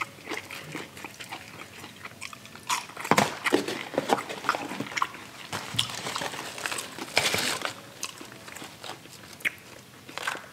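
Close-up chewing of fried food, with wet mouth clicks and smacks, and a cardboard takeout box being handled and opened partway through.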